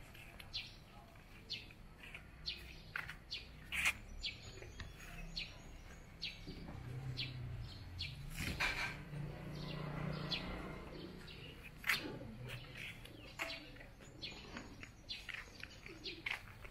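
Birds chirping in short, scattered calls. A low hum swells and fades about halfway through.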